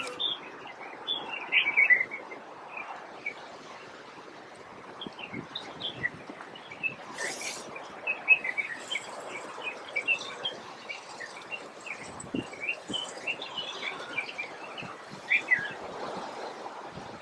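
Birds chirping outdoors: many short, high chirps scattered irregularly over a steady background hiss.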